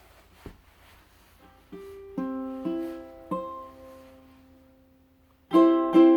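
Acoustic stringed instrument being played. There is a soft knock about half a second in, then a few single plucked notes and a held chord that rings out. From about five and a half seconds in come louder strummed chords, the opening of a song's accompaniment.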